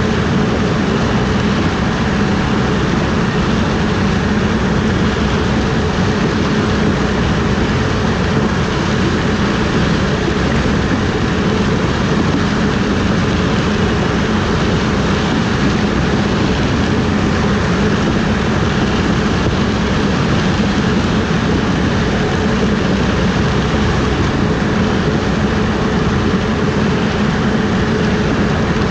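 Harvest machinery running steadily under load: a loud, unchanging drone strongest in the low range.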